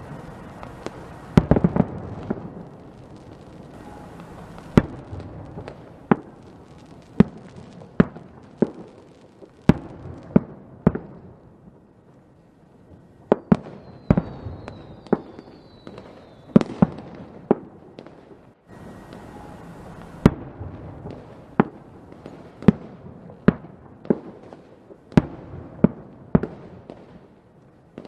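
Fireworks going off: a long series of sharp bangs, roughly one a second, with a quick cluster of bangs about a second and a half in. A few high falling whistles sound about halfway through, among the bangs.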